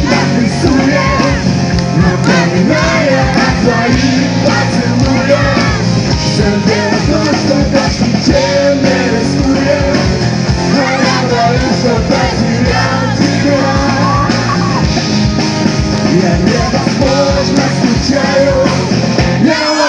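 Acoustic cover band playing a song, a full, steady band sound with a wavering melody line on top.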